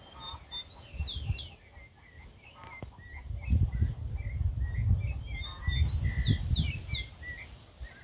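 A songbird singing the same phrase twice, each a few even notes followed by quick falling whistles and a run of lower chirps, the second phrase starting about halfway through. A low rumble sits on the microphone underneath.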